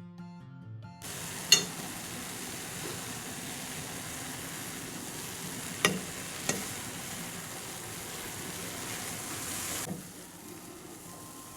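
Food sizzling steadily in a frying pan, with a few sharp knocks of a utensil against the pan. The sizzle starts about a second in and drops away near the end.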